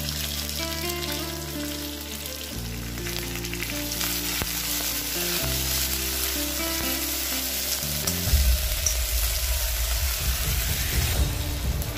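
Sliced onions and mint leaves sizzling as they fry in hot oil in a stainless steel kadai. Soft background music with slow chord changes plays underneath.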